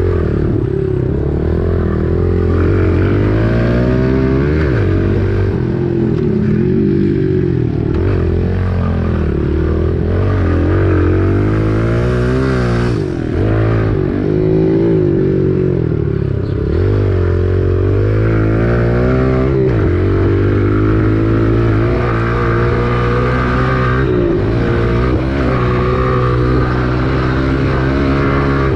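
Kawasaki KLX110's small four-stroke single-cylinder engine being ridden hard around a dirt track, its revs climbing and dropping over and over as the rider accelerates, shifts and slows for corners.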